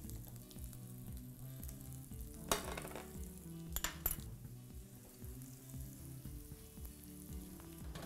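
Grated-potato rösti frying in a pan with a quiet, steady sizzle as margarine is added. A few light clicks of a metal spoon against a small glass bowl come between about two and a half and four seconds in.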